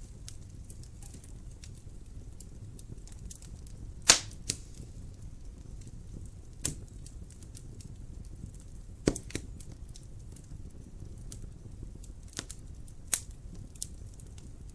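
Wood fire burning in a fireplace: a low steady rumble of flames with scattered crackles and a few sharp pops, the loudest about four, nine and thirteen seconds in.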